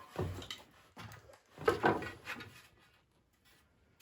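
Poplar swing slats being handled on the bench: a few short wooden scrapes and knocks, the loudest around two seconds in.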